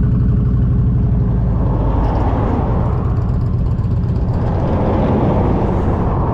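Harley-Davidson motorcycle engine running steadily at cruising speed, with wind rushing over the bike.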